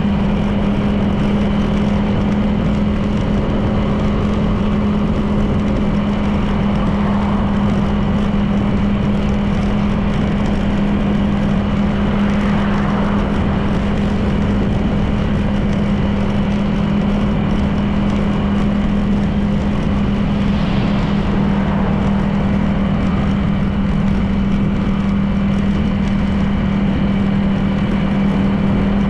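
Honda PCX 160 scooter's single-cylinder engine running at a steady cruise, one constant drone under wind and road noise. Two brief swells of sound come and go, one near the middle and one about two-thirds through.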